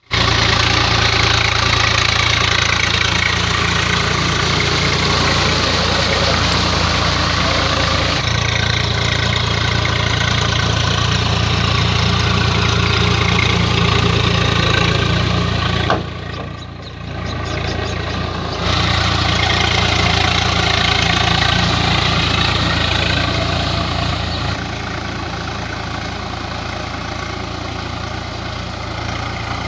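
Swaraj 744 FE tractor's three-cylinder diesel engine running steadily under load, pulling a rotary tiller for puddling. The sound shifts suddenly a few times, with a brief quieter stretch about two-thirds of the way through.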